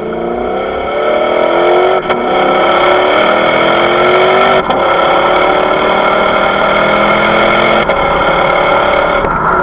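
Lexus GS F's 5.0-litre V8 through a Suruga Speed PFS Loop Sound aftermarket exhaust, accelerating hard. It climbs in pitch, shifts up twice, about two seconds and four and a half seconds in, and settles to a steady note near the end.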